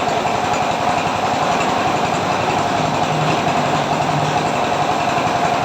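An engine idling steadily, with a rapid, even pulsing.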